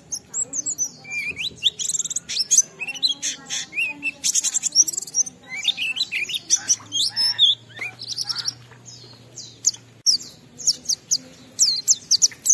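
White-eye (pleci) singing a fast, unbroken warbling song of high chirps, quick sliding notes and rapid trills. This is the long 'ngalas' song style that bird keepers use as a lure to set other pleci singing.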